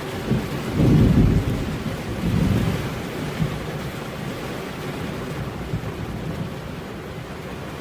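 Steady rain with a roll of thunder: a low rumble swells about a second in, rolls again a moment later, then fades back under the hiss of the rain.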